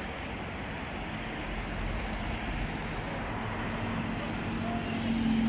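Outdoor road traffic noise, with a vehicle's steady engine hum growing louder near the end.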